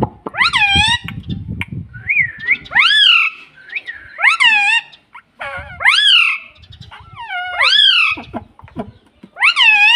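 Pet parrot giving about six loud, piercing calls, one every second and a half or two, each rising and then falling in pitch.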